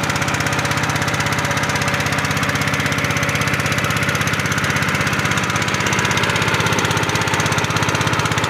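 A small engine running steadily at an even speed, with a fast, regular chugging pulse.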